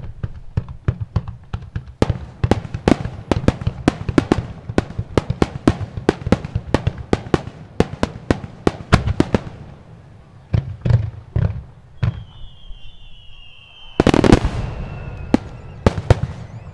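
Fireworks going off in rapid volleys of sharp bangs, three or four a second, thinning to scattered bangs, with a loud blast about fourteen seconds in. A thin high whistle, falling slightly in pitch, runs under the later bangs.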